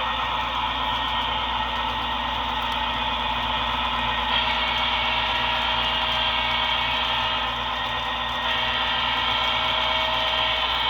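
HO-scale model trains running on a DCC layout, giving a steady engine-like hum. The tone shifts about four seconds in and again a little past eight seconds.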